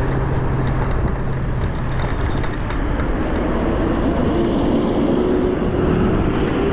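Steady wind and road noise from riding an electric bicycle in traffic. A low hum fades out about two and a half seconds in, and a higher hum rises slowly in pitch from about three seconds in.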